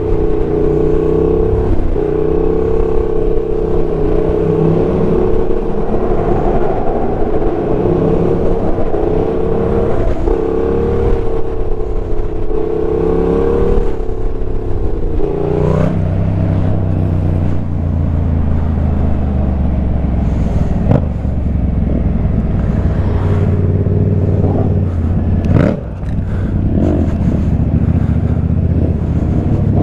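Motorcycle engine running at a steady, fairly high speed, then dropping sharply in pitch about halfway through as the throttle closes, and carrying on at a lower note.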